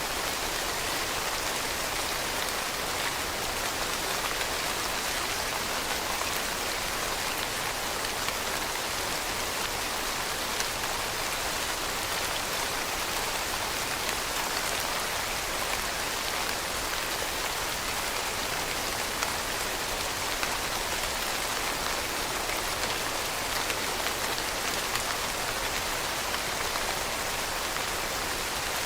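Steady rainfall, with a dense patter of drops hitting a surface and no distinct louder events.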